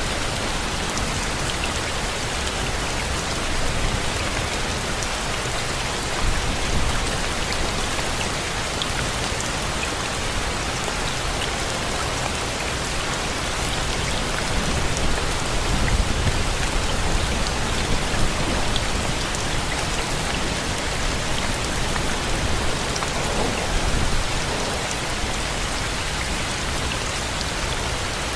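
Steady rain falling, a dense even hiss with individual drops ticking through it, and a few brief low rumbles swelling up now and then.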